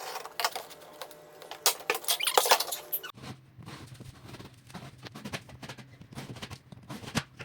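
Cardboard being worked by hand: squeaky scraping with scattered light taps and clicks.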